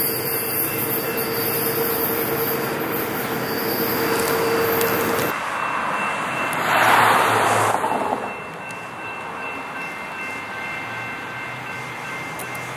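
Train wheels running on the rails with a steady squeal; the sound cuts off abruptly about five seconds in, followed by a brief rush of noise and then quieter faint steady tones.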